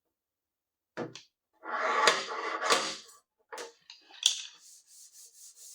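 Dent-puller work on a car door panel: a few short clacks and scrapes, the loudest a noisy burst with sharp clicks about two seconds in.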